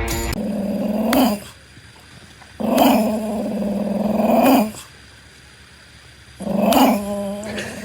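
A dog giving three long, drawn-out vocal calls, each lasting one to two seconds with short pauses between. Each call holds a steady pitch and bends upward at its end.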